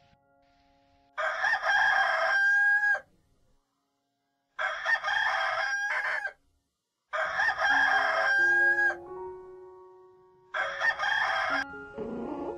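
Rooster crowing four times, each crow one to two seconds long; the last is shorter. Faint steady music tones sound between the crows.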